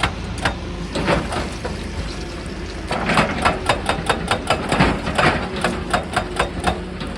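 Excavator breaking rock: a steady diesel engine hum under runs of sharp hammering knocks. A few knocks come in the first second, then a rapid series of about four a second starts about three seconds in and stops near the end.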